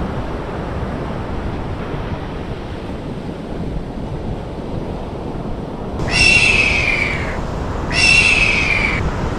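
Steady surf and wind noise on an open beach, with two high, slightly falling whines of about a second each near the end.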